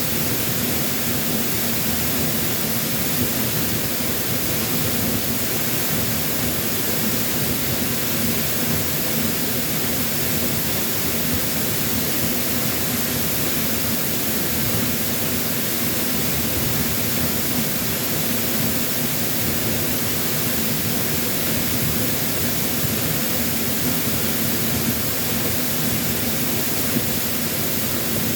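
Waterfall pouring heavily, a steady, unbroken rush of falling water, its flow swollen after a typhoon.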